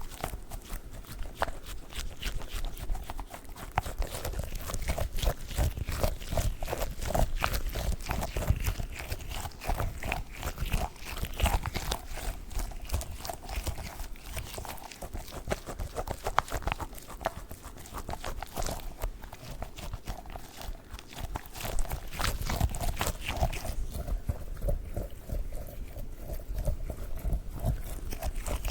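Squishy dog-shaped stress toy squeezed and kneaded up close: a dense, continuous run of rapid crackling clicks.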